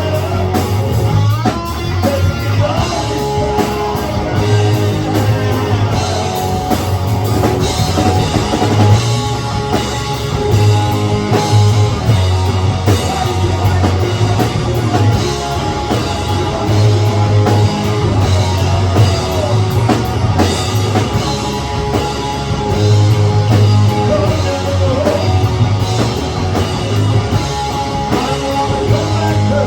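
Rock music played by a full band, with drum kit and guitar over a heavy, steady bass line.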